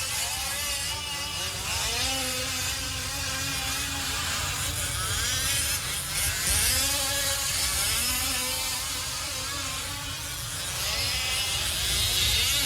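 Several fifth-scale gas RC race trucks' small two-stroke engines buzzing around the track at once, their pitches rising and falling as they rev up and back off.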